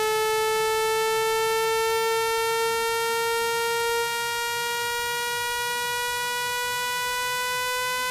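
Synthetic water-eject tone for clearing a phone speaker: a single buzzy electronic tone rich in overtones, gliding slowly upward in pitch, a little quieter from about four seconds in. It is played at full volume so the speaker's vibrating diaphragm pushes out water, moisture and dust.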